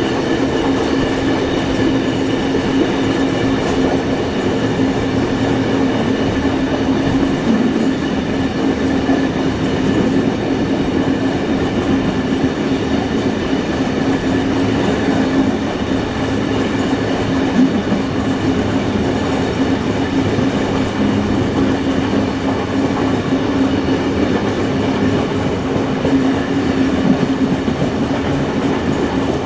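Steam-hauled passenger train running steadily along the track, heard from a carriage: a continuous rumble of wheels on rail with a steady hum.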